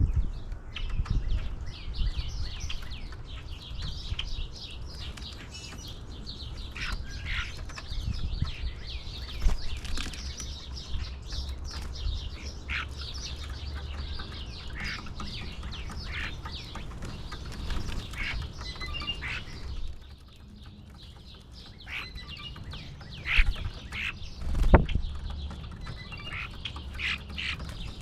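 Songbirds chirping and calling over and over with short, quick notes, over a steady low rumble. Two sharp knocks come near the end.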